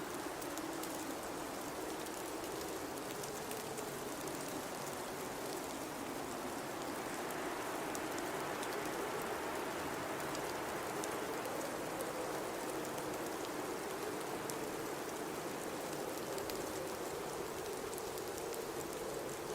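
Blizzard wind blowing steadily, swelling slightly over several seconds, with faint fine ticking throughout.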